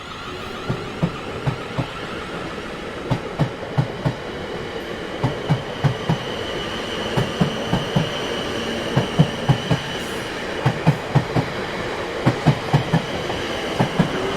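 Railway train rolling past, its wheels clattering over rail joints in repeated groups of two to four knocks above a steady rumble, with a faint high wheel whine through the middle.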